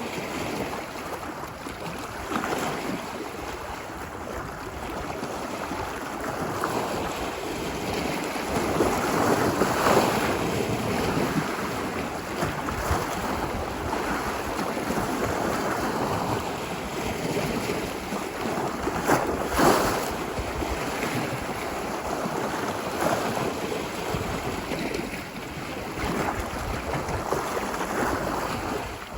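Ocean waves washing onto a beach: a steady rush of surf that swells louder as waves break, most strongly about ten seconds in and again near two-thirds through.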